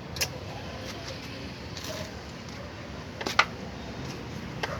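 Three sharp metallic clicks, the loudest about three and a half seconds in, as tools and glow plugs are handled, over a steady low hum.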